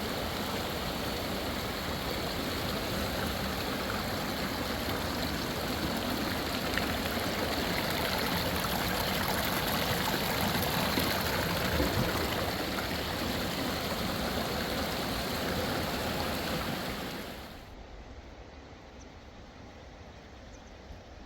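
Fast mountain river water flowing, a steady, even rush of noise that cuts off abruptly about 17 seconds in, leaving a much quieter background.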